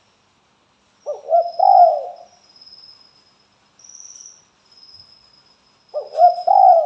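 Spotted dove (tekukur) cooing: a short multi-note coo phrase about a second in, repeated near the end. A faint, high-pitched trill runs behind it.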